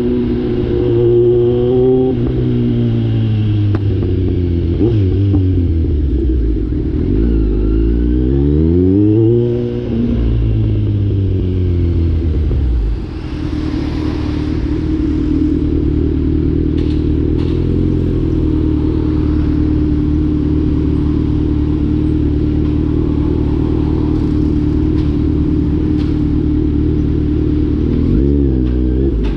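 Kawasaki Z900 inline-four motorcycle with the catalytic converter removed, revving up and down through the gears while riding for the first dozen seconds, then holding a steady engine speed at cruise. The engine note shifts again briefly near the end.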